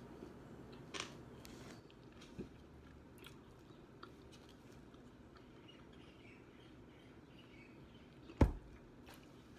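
Chewing of fried chicken with small wet mouth clicks and crunches. Near the end there is a single dull thump, the loudest sound.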